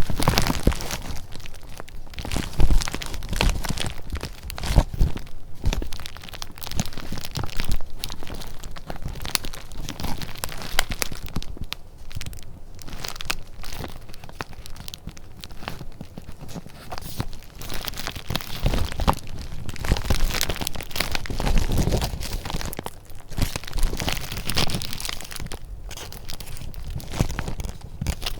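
Paper being handled at close range: irregular rustling, crinkling and crackling of sheets and paper scraps, with small taps in between.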